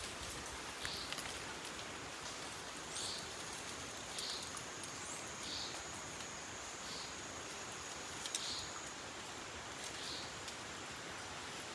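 Forest night-and-day ambience: a short high call repeating about every second and a half, with a thin steady high whine for several seconds in the middle, over an even hiss.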